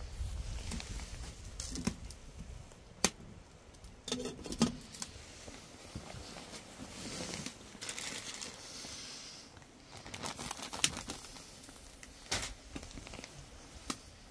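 Crinkling and rustling of something being handled, broken by a few sharp clicks.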